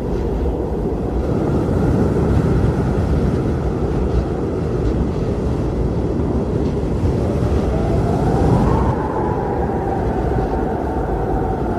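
Blizzard wind blowing hard as a steady, deep rushing rumble, with a howling tone that rises and then falls away slowly from about two-thirds of the way in.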